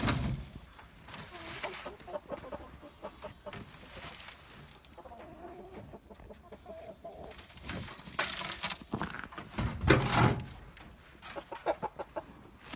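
A flock of chickens clucking softly with many short calls, broken by a few louder noisy bursts, the loudest about ten seconds in.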